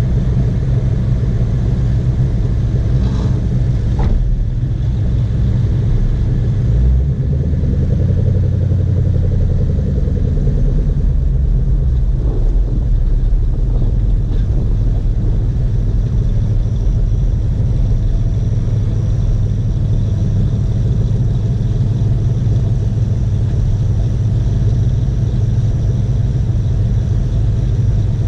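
Classic cars and hot rods idling and creeping forward in a queue: a steady low exhaust rumble.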